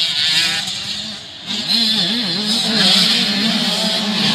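Motocross bike engines revving hard, the pitch swinging up and down as the throttle opens and closes; it drops back briefly about a second in, then comes on loud again.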